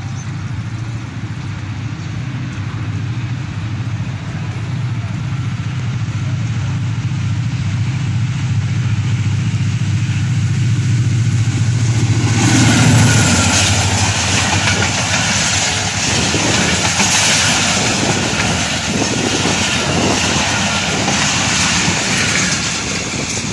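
Diesel-hauled passenger express passing at speed. A low engine drone grows louder as the locomotive approaches. About twelve seconds in the locomotive goes by, and the drone gives way to the loud rush and clatter of the coaches' wheels on the rails.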